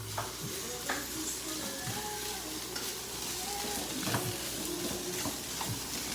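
Plant-based sausage and vegetables sautéing in a pan: a steady sizzle, with occasional clicks and scrapes of a utensil stirring.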